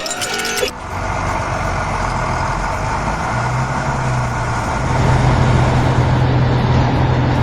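Vehicle engine sound effect running steadily, with a low hum that gets louder about halfway through and again around five seconds in. A short bit of music is cut off in the first second.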